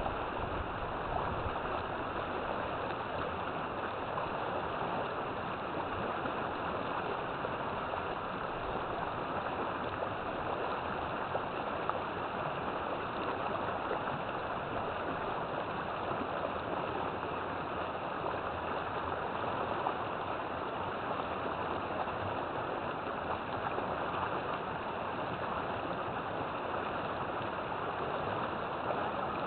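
River water flowing over rocks: a steady, even rushing and gurgling.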